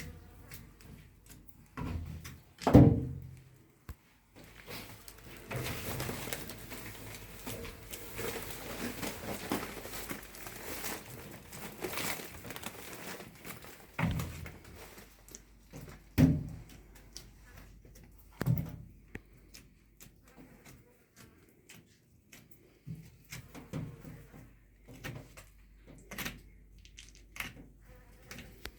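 Scattered knocks and thuds of objects being handled, the loudest about three seconds in, with a stretch of rustling and scraping in between.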